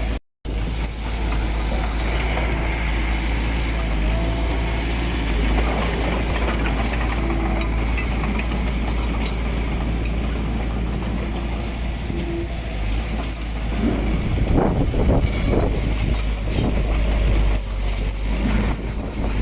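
Heavy diesel earthmoving machinery running with a steady low rumble. The sound cuts out briefly just after the start, and a stretch of louder knocking and clatter comes about three-quarters of the way through.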